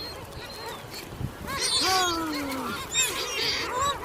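A flock of seagulls calling, with many short, overlapping squawks in quick succession.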